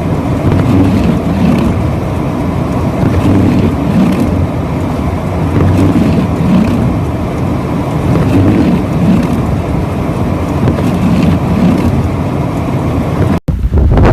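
Strong blizzard wind rushing and buffeting the microphone, a loud steady roar that swells about once a second. Near the end it cuts off abruptly and gives way to a deeper wind rumble.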